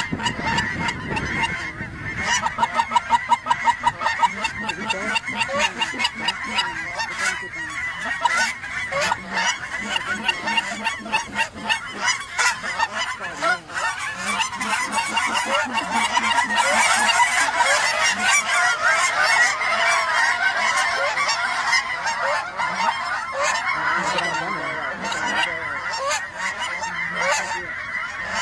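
A large flock of geese honking, with many overlapping calls in a continuous clamour. A run of close, evenly repeated honks comes a couple of seconds in, and the calling grows denser and louder from about halfway on.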